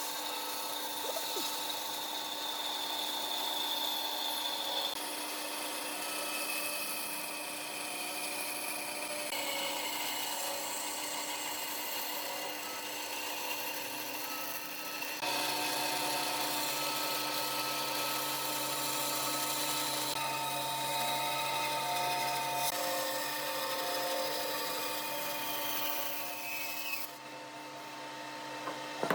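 A woodworking power machine runs with a steady hum while its cutter scrapes and grinds against wood. The sound changes abruptly three times.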